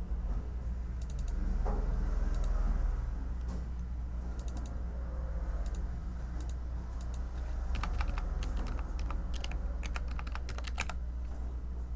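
Typing on a computer keyboard: scattered keystrokes in small clusters, then a quick run of keys from about eight seconds in. A steady low hum sits underneath.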